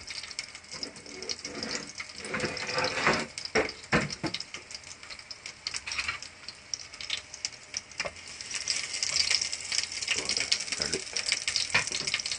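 Garlic cloves sizzling and crackling in a hot nonstick pot, with irregular sharp pops over a hiss that grows stronger in the second half.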